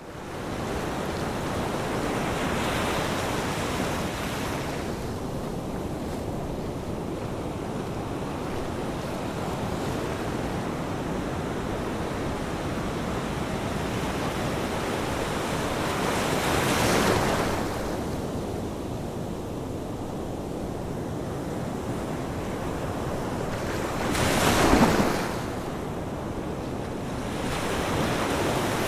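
Ocean surf: a steady wash of water with waves swelling and breaking about three seconds in, again around the middle, and loudest a few seconds before the end.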